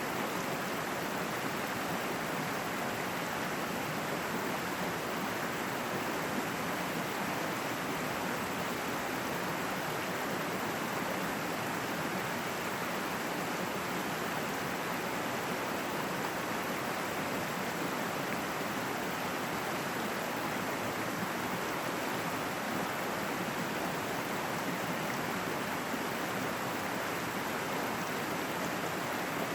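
Running water in a forest stream, rushing steadily with no change.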